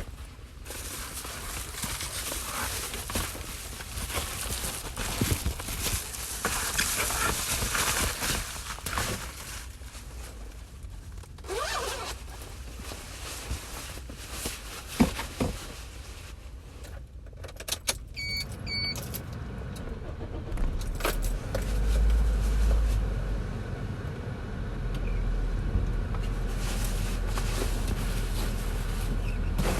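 Inside a car in the rain: rain hiss with jangling keys and scattered clicks and knocks, then a short series of high electronic beeps about 18 seconds in. The engine then starts and runs with a steady low hum.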